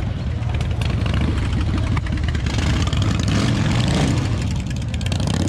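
Motorcycle engine running at low revs, swelling louder for a couple of seconds in the middle.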